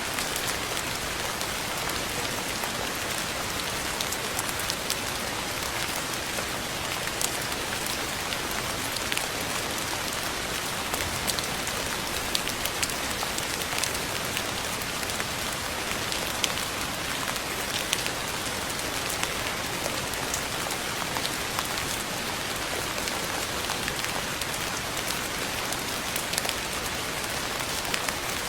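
Steady rain falling, with scattered single drops ticking sharply out of the even hiss.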